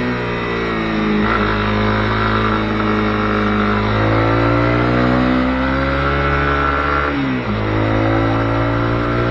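Honda CB250R's single-cylinder engine pulling under way. Its pitch climbs, then drops sharply about a second in and again about seven seconds in.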